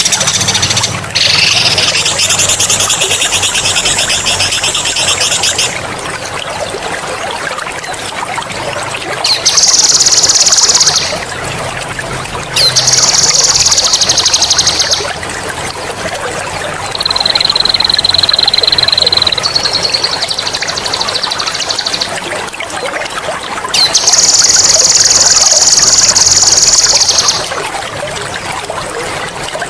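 A songbird singing long, rapid, high-pitched trilled rolls in six loud bouts of about two to four seconds each, one of them a steadier single-pitched trill, over a continuous trickle of running water.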